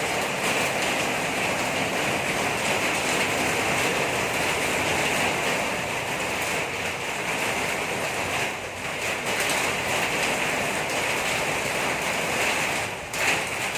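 Engine-driven water pump running, with a steady rushing of pumped water.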